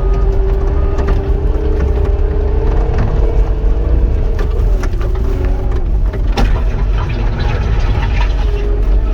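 Cat 259 compact track loader working, heard from inside the cab: a steady diesel engine drone with a heavy rumble and a constant whine, with sharp knocks and rattles from the machine on the rough ground.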